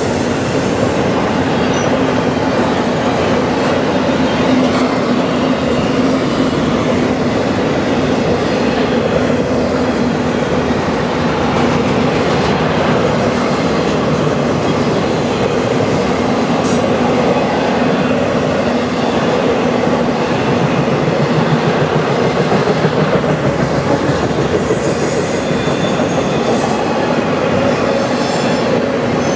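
Freight train of articulated intermodal well cars rolling steadily past: a continuous rumble of steel wheels on rail. Faint high wheel squeal comes in near the end.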